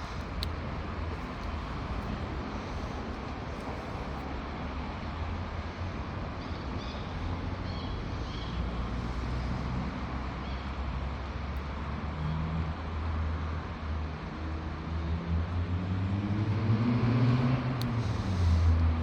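Steady road-traffic rumble, with a heavy vehicle's engine rising in pitch and growing louder as it accelerates near the end.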